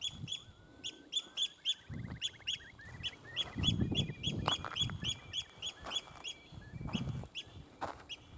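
Ground-nesting waders alarm-calling at an intruder near their nests: a fast run of sharp, high piping calls, about three a second, with a lower rising trill about a second in. A few soft low thuds of footsteps come through underneath.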